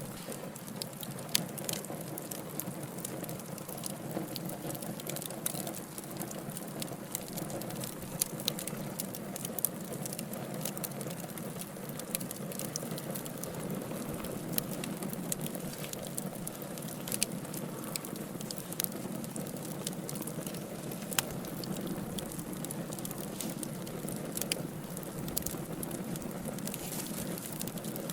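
Wood fire burning steadily: a continuous low rushing of flames with frequent irregular sharp crackles and pops from the burning logs.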